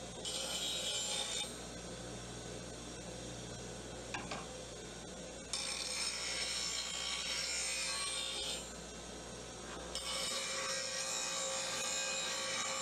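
A woodturning tool sharpened against a CBN wheel on a 1 HP bench grinder: the motor hums steadily while steel grinds on the wheel in hissing spells, briefly at the start, then for about three seconds from the middle, and again from about ten seconds on.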